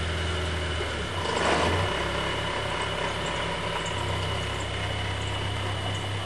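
A car engine runs steadily with a low hum, with a brief louder rush of noise about a second and a half in.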